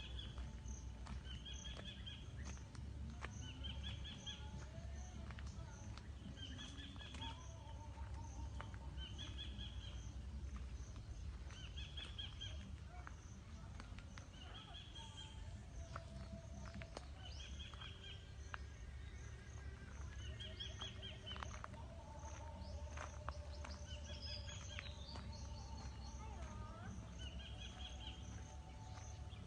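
Birds calling, one repeating the same short call about every two seconds, with other birds whistling in between, over a steady low rumble.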